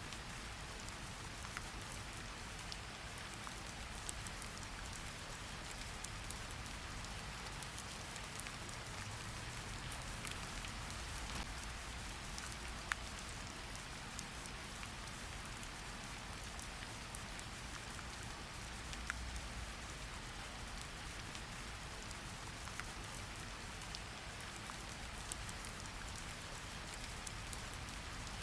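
Steady rain falling, an even hiss with scattered sharp drop ticks and a low rumble beneath.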